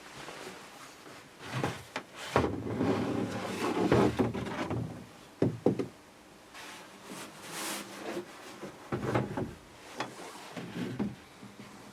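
A hard plastic power-tool case being handled: irregular knocks, clicks and scraping, with a longer rattling stretch about two and a half seconds in and sharp clicks near the middle and again around nine to eleven seconds in.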